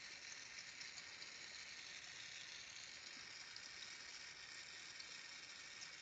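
Steady, faint hiss of a Carlisle glassworking torch flame.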